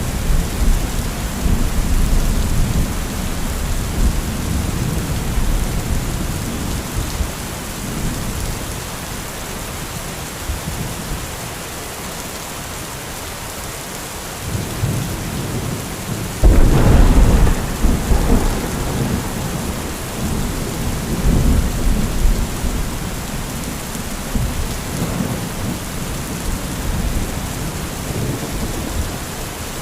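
Heavy rain with rolling thunder. A rumble fades over the first several seconds, a sudden loud thunderclap comes about halfway through and rolls on for a few seconds, and smaller rumbles follow under the steady rain.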